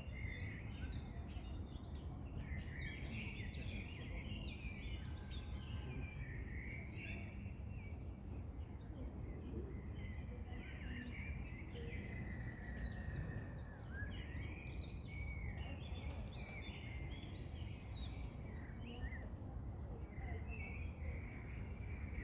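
Several wild songbirds chirping and singing throughout, over a steady low outdoor background rumble.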